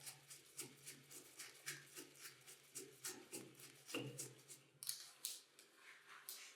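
Faint, quick clicks and light taps of hand tools on metal parts being taken apart, several a second, with a heavier knock about four seconds in.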